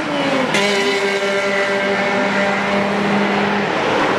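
Race car engine running at high revs. A falling note breaks off sharply about half a second in, then a steady, even note holds for a few seconds.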